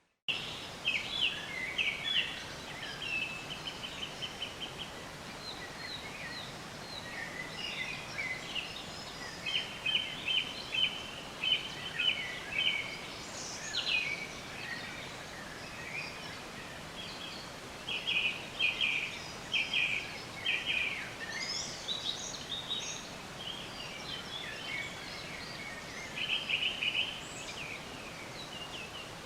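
Several wild songbirds chirping and singing over a steady outdoor hiss: many short high chirps and quick trills in clusters, overlapping one another. The sound cuts in suddenly at the very start.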